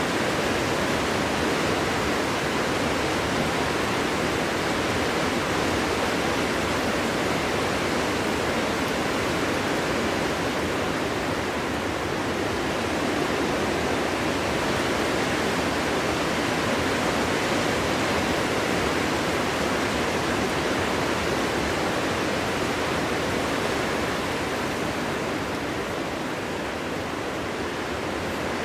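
Steady winter wind blowing, an even rushing noise without whistles or separate gusts, easing slightly near the end.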